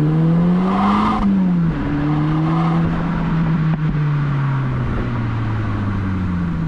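Volkswagen Golf R's turbocharged four-cylinder running through an APR catback exhaust under hard acceleration. The pitch rises, drops sharply about a second in as it shifts up, then holds and slowly falls.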